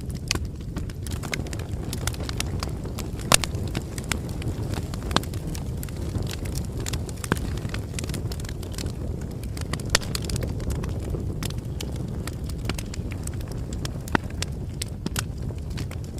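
Campfire burning: a steady low rumble of flame with sharp crackles and pops at irregular moments, a few of them louder than the rest.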